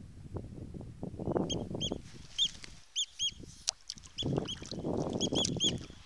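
Birds calling over open water: runs of short, high, arched calls, several in quick succession. They sit over a low rushing noise that swells twice.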